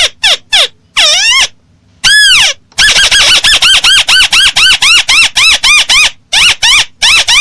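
Recorded lure call of the tikusan, a crake: a few separate arched notes, a longer one about two seconds in, then a fast run of rising-and-falling notes at about three to four a second, broken briefly near the end.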